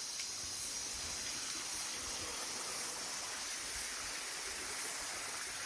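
Steady rush of a rainforest creek and waterfall cascading over rocks, an even hiss. A faint tick about a fifth of a second in.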